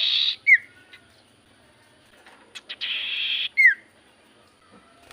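Common iora (cipoh) calling: a harsh hissing rasp followed at once by a short, sharp, falling whistle, given twice about three seconds apart.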